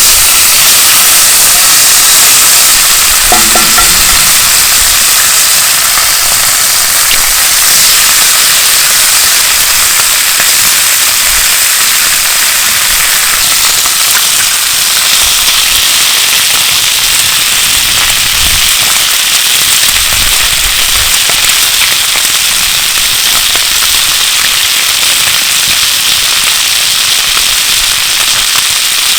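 Bacon and eggs sizzling steadily in a frying pan over a campfire, a constant crackly hiss of hot fat.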